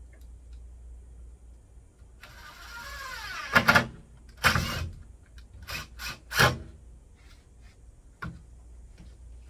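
A sliding scrape of about a second, then a series of sharp knocks and clunks, the loudest in a cluster a little past the middle, with one more near the end.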